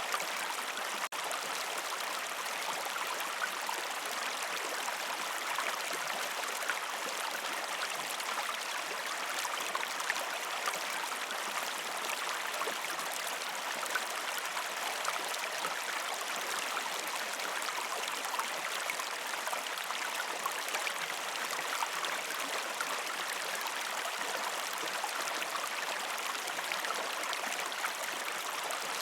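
River stream flowing steadily, a continuous rushing and babbling of water, with a brief dropout about a second in.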